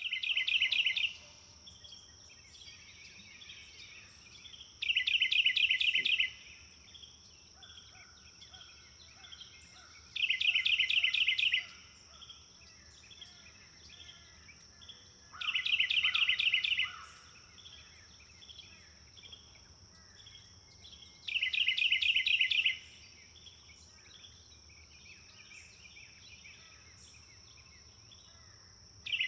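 A songbird sings a short, fast trilled phrase five times, about every five seconds, over softer chirping from other birds. A steady high-pitched whine runs underneath.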